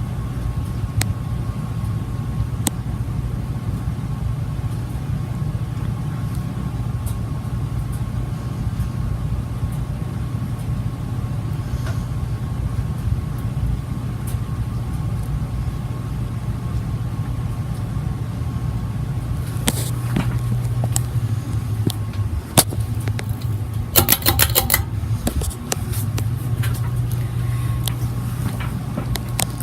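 Olympia MFG five-blade ceiling fan running: a steady low hum with a faint steady higher tone. A few sharp clicks come through it, with a quick rattle of clicks near the end.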